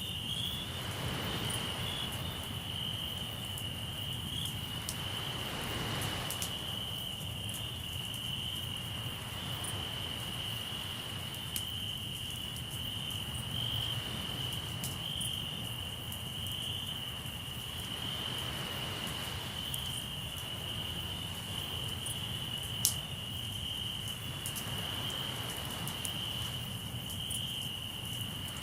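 Crickets trilling steadily and high, over a campfire crackling with scattered small pops and one sharper pop near the end. Beneath them, sea waves wash in and fade every few seconds.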